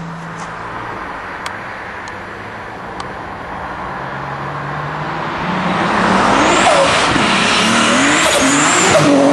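Drag racing car engines running, quieter at first, then revving loudly from about six seconds in with the pitch rising and falling.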